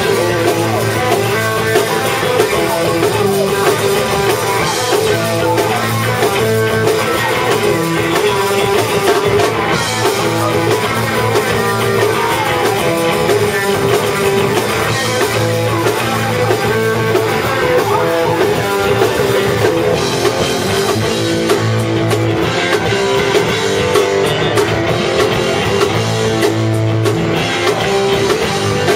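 Rock band playing loud and without a break: guitars and a drum kit.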